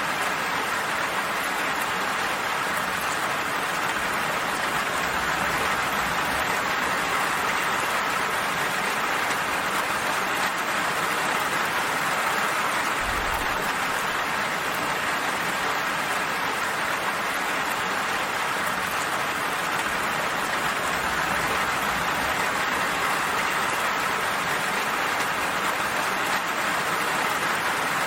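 Steady rain falling, an even hiss of many drops with no change in level.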